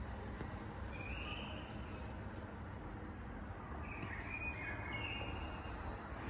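Small songbirds singing short, high phrases in two spells, over a low steady background rumble of the city.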